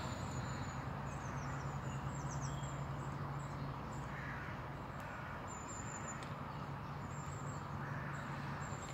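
Quiet lakeside ambience: small birds chirping in short high calls, over a faint low steady hum.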